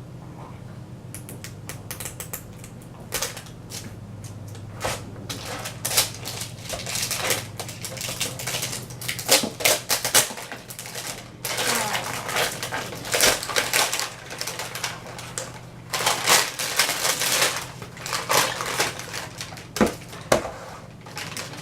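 Crinkling and tearing of a Pikmipop toy's wrapping as it is peeled off by hand, in irregular crackly bursts that grow busier after the first few seconds.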